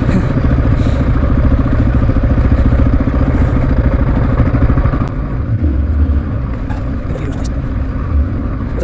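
Honda XR650R dirt bike's single-cylinder four-stroke engine running while riding down a rough trail; it is loud for about five seconds, then quieter as the bike eases off.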